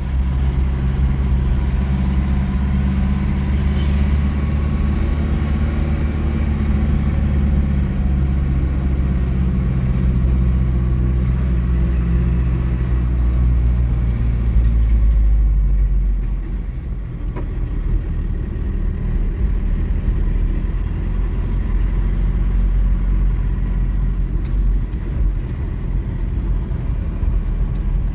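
A car running on the road, with a steady low engine hum; a little over halfway through the hum drops away and a rougher low rumble carries on.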